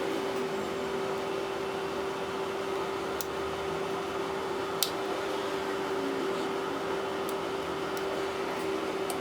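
Steady background hum holding one constant tone over an even hiss, with two small sharp clicks, one a little past three seconds and a louder one near five seconds.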